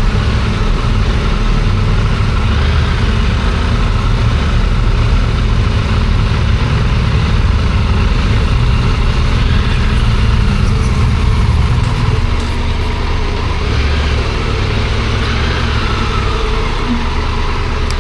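An engine running with a steady low rumble, which eases slightly about twelve seconds in.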